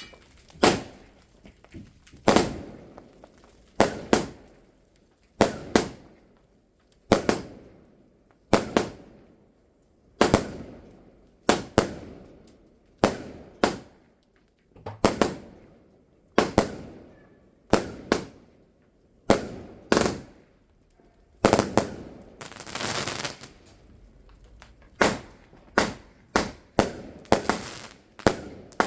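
Fireworks going off: a steady run of sharp bangs about every second and a half, each trailing off in a rolling echo, with a stretch of dense crackle about three-quarters of the way through.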